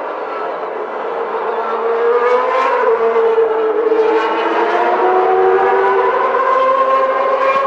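Several Formula One car engines running together, their notes overlapping and sliding up and down in pitch. The sound grows louder about two seconds in.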